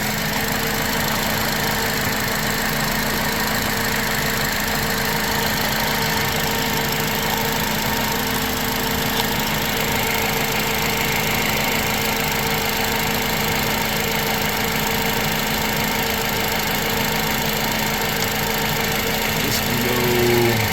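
An engine running steadily at idle: a constant, unchanging drone with a steady hum. A short faint squeak comes near the end.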